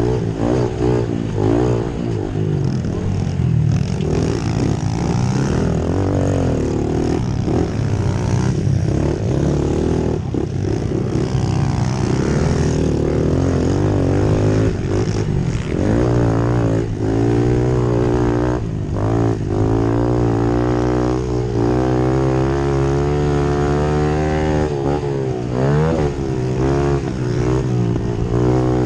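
Small motorcycle engines revving up and falling back again and again, with the pitch rising and dropping every second or so over a steady low engine hum.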